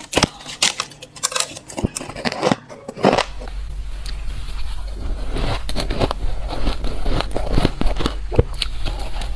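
A person biting and chewing soft, frosty ice chunks: a string of sharp, crackly crunches. About three seconds in the recording changes, and a steady low hum runs under continued crunching.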